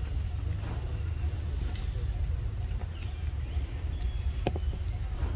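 Outdoor ambience: a steady low rumble with a bird repeating short, high calls that drop slightly in pitch, about once a second.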